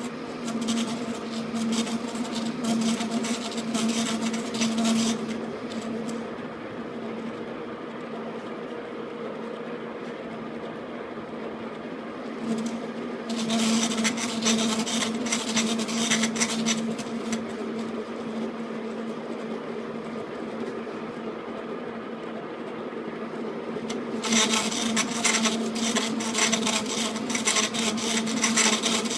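Metal lathe running with a steady hum, its cutting tool taking three spells of cut on the workpiece that give a scratchy, rasping noise: one at the start, one about halfway, and one near the end.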